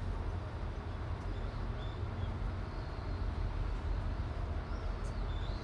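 Steady low outdoor rumble, with a few short, high bird chirps about two seconds in and again near the end.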